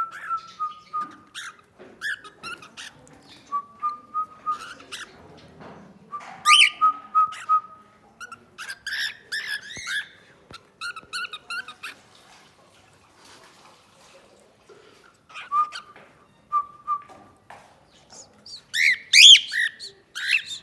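Cockatiel whistling and chirping: short whistled notes come again and again between quick chirps and sweeping calls. The loudest run of calls comes near the end.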